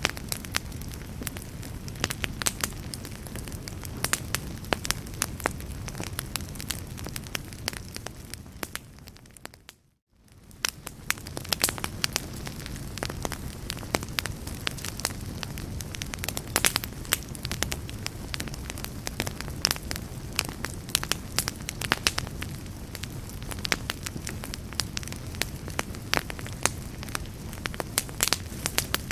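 Wood fire crackling, with frequent sharp pops over a low, steady rumble of flames. About ten seconds in, the sound briefly fades almost to silence and then fades back in.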